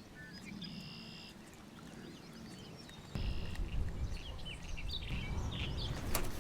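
Wild birds calling: a short high whistled note about half a second in, then scattered chirps. A low rumbling noise comes in suddenly about three seconds in and continues.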